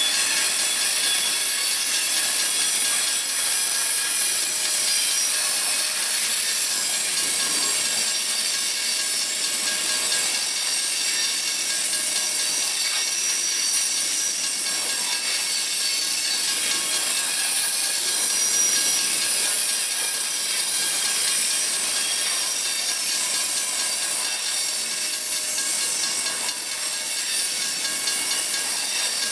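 Freight train of covered hopper cars rolling steadily past, steel wheels on the rails giving a constant high-pitched hiss and screech.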